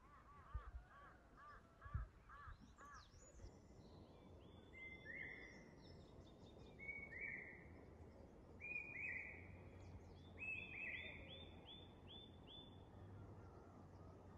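Faint wild birdsong. First comes a quick run of short looping notes over the first three seconds, then a second bird repeats groups of higher, downward-slurred notes. Two soft thumps sound in the first two seconds.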